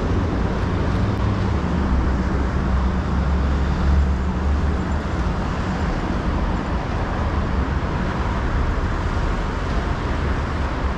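Steady city road traffic: vehicles running past on a busy street, a low rumble that swells about four seconds in.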